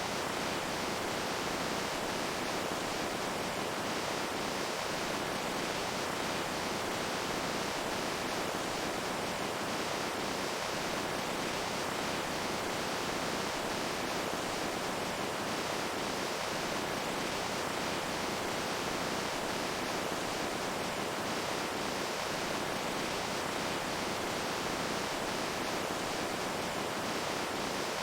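Running water: a steady, even rush of water with no change in level.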